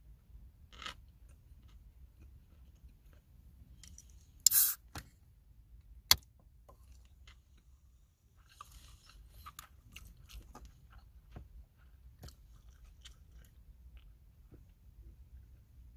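Close-up chewing and eating sounds with small scattered clicks and crunches. A short loud noise comes about four and a half seconds in, and a sharp click a second and a half later.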